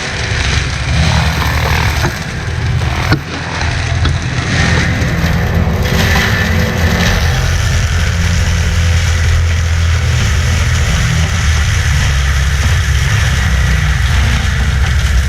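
Heavy diesel land-clearing machinery running steadily under load, with one sharp crack about three seconds in.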